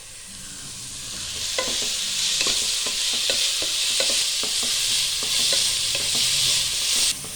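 Onions and ginger-garlic-green chilli paste sizzling in hot oil while a spatula stirs them. Irregular scraping knocks sound over a steady sizzle that builds over the first second or two and cuts off suddenly near the end.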